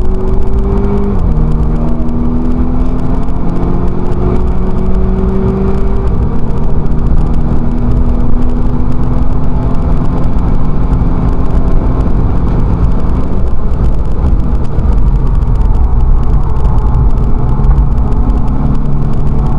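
Volkswagen Scirocco race car's engine pulling hard under load, heard from inside the car. The revs drop once about a second in at an upshift, then climb slowly, over a constant low road and wind rumble.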